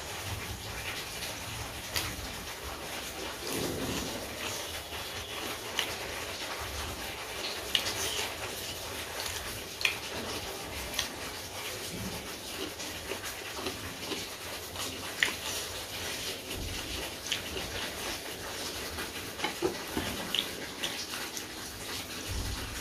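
Close-miked chewing and wet mouth smacks of a person eating buff tandoori momo, with scattered irregular clicks and crackles.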